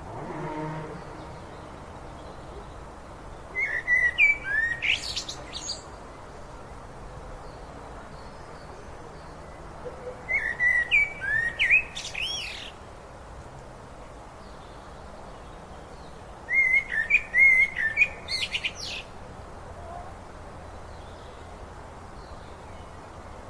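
A songbird singing the same kind of phrase of quick, high whistled notes three times, each phrase about two and a half seconds long and about six seconds apart. Under it runs the steady rush of a river.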